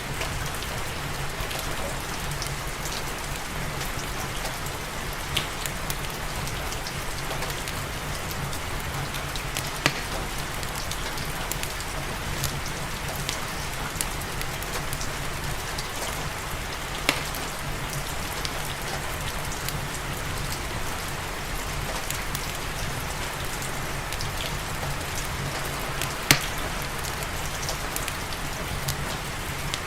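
Steady rain falling with a continuous even hiss, mixed with a fireplace's crackling: sharp pops come every few seconds, the loudest one late on.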